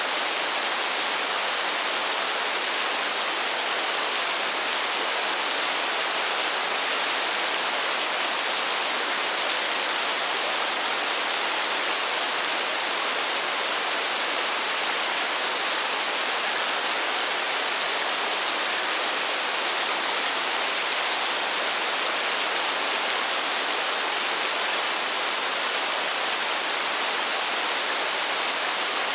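Steady rain falling, an even, unbroken hiss with no separate drops or other events standing out.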